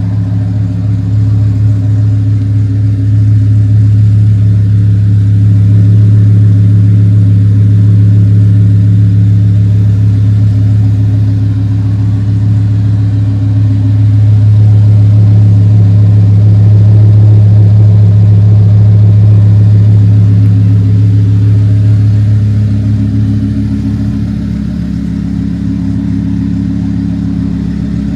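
Twin-turbocharged Audi R8 5.2-litre V10 idling with a steady, deep hum. Its level swells slightly about halfway through and eases off near the end.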